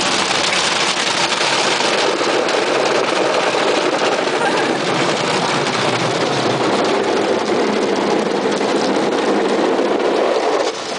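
Automatic car wash running over the car, heard from inside the cabin: a loud, steady wash of water spray and machinery on the body that drops away abruptly just before the end.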